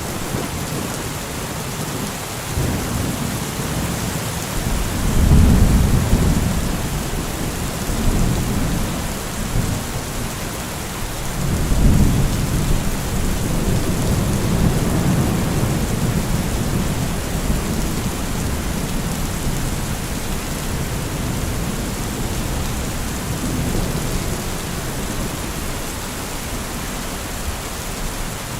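Steady rain falling, with low rolls of thunder swelling and fading, the loudest about five seconds in and again about twelve seconds in.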